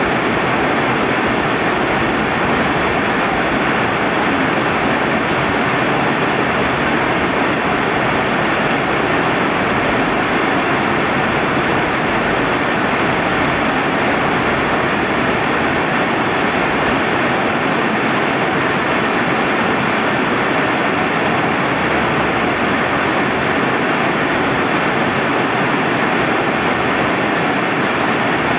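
Steady rain and a flowing river, an even, unbroken rush of noise.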